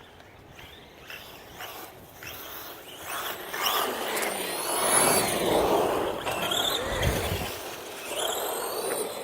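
Electric motors of 1/10-scale RC monster trucks whining as they are driven, the pitch gliding up and down with the throttle over a rough noise, getting louder from about three seconds in.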